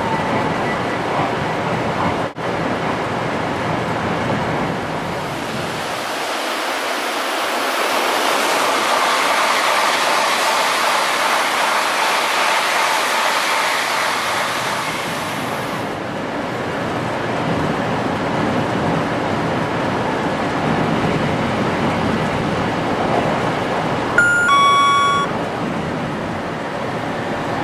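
Shinkansen train running at speed, a steady rushing noise of wheels and air. For about ten seconds in the middle it gives way to a brighter, hissier rush as a Shinkansen passes close by. Near the end there is a short electronic beep.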